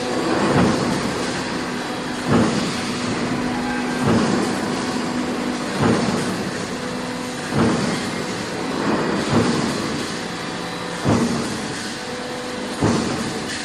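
Hydraulic press running: a steady hum with a thud about every second and three-quarters, eight times in all.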